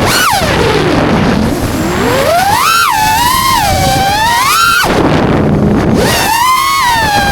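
FPV quadcopter's brushless motors whining, their pitch swooping up and down as the throttle changes, falling low twice when the throttle is cut. Wind rumbles on the microphone underneath.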